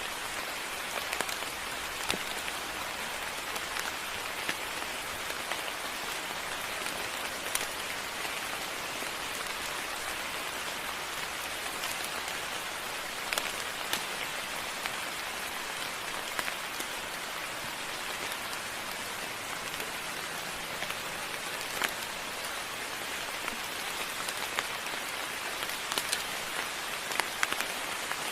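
Steady moderate rain falling, a constant hiss with frequent sharp individual drop hits.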